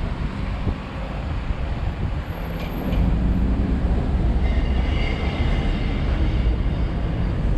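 Road noise from a moving car: a steady rumble of tyres and wind that grows louder about three seconds in, with a faint high whine joining about halfway.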